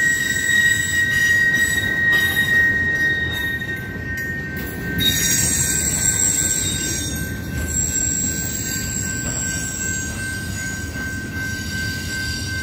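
Freight train of empty flatcars rolling past, its steel wheels squealing in steady high tones over a low rumble. One of the squealing tones fades about five seconds in, while another keeps on.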